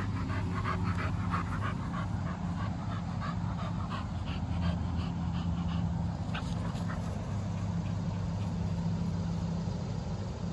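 American Bully puppy making quick short vocal sounds, about three a second, for the first four seconds or so, with one more a couple of seconds later. A steady low hum runs underneath.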